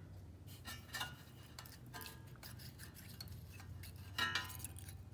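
Small metallic clicks, clinks and scrapes of hand tools on a small engine's valve rocker arm: a wrench on the adjuster nut and a feeler gauge worked under the rocker while setting valve clearance. A few clinks ring briefly, the loudest near the end, over a steady low hum.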